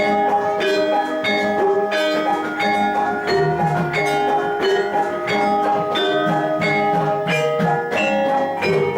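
Javanese gamelan music for jathilan: metal-keyed instruments struck in a quick, even run of ringing notes, repeating steadily.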